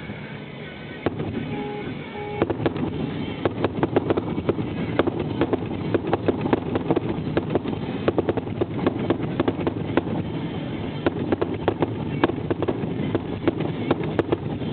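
Fireworks finale barrage: a dense, continuous run of bangs and crackles over a rumble, growing louder about a second in.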